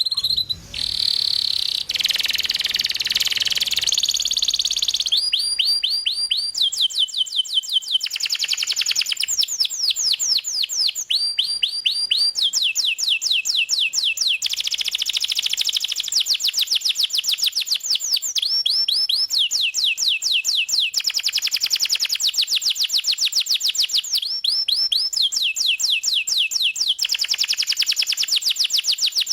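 A domestic canary in full song, singing continuously: a warbling passage at first, then a string of rapid trills, each made of fast repeated down-slurred notes and held for a second or two before it switches to a new tour.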